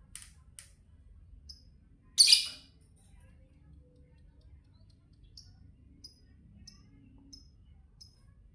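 Lovebird calling: a loud, harsh squawk about two seconds in, then a run of short, high chirps about every two-thirds of a second.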